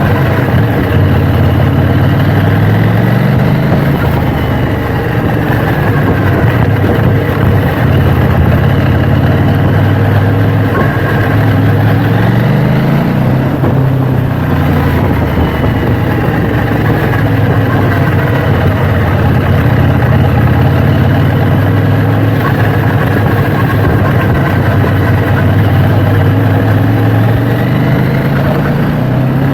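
KTM 790 Duke motorcycle's parallel-twin engine running under way, its pitch rising as it accelerates about two seconds in and again about twelve seconds in, then holding steadier.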